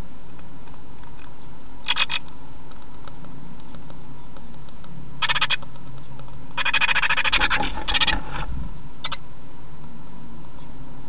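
Scratching and scraping inside a great tit nest box as the birds shift about in the nesting material. It comes in short bursts about 2 s and 5 s in, then a longer spell of rapid scratching from about 6.5 to 8.5 s, over a steady hiss.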